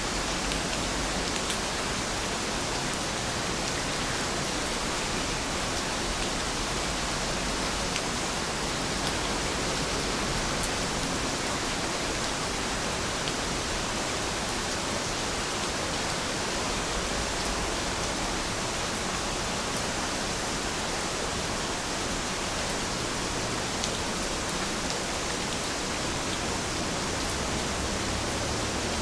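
Heavy rain falling steadily, an even hiss with faint drop ticks here and there.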